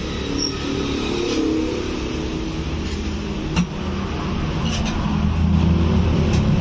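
A car engine running steadily in a repair shop, getting louder in the last couple of seconds, with one sharp click about three and a half seconds in.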